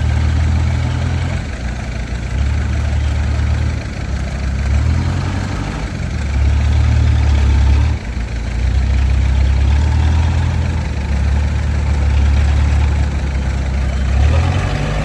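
Heavy diesel engine of earthmoving machinery working under changing load. Its low note steps up and down every second or two.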